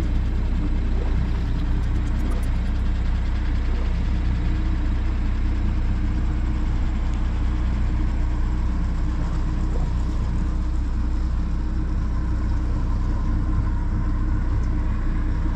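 A boat's engine running steadily, a constant low drone with no change in pitch; the boat is an Albin 28TE cruiser.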